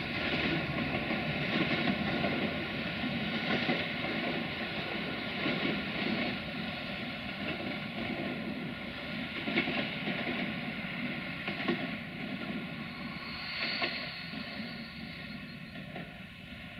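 Passenger coaches rolling away along the track: a steady rumble of wheels on rails that slowly fades, with a brief high-pitched squeal about three-quarters of the way through.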